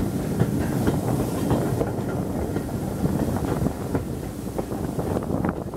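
A passenger train in motion, heard from a carriage window: the carriage wheels running on the rails with a steady rumble and irregular clicks and clatter.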